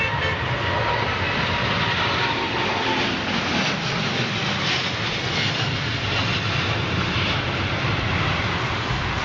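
Jet airliner engine noise heard from the ground: a steady rushing noise with a thin whine that fades out after the first few seconds.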